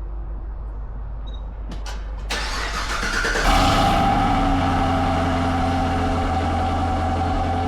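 Cadillac CT5-V Blackwing's supercharged 6.2-litre V8 starting through a newly fitted Corsa Xtreme valved cat-back exhaust. A few clicks come first, then cranking about two seconds in. The engine catches with its loudest burst about a second later and settles into a steady idle.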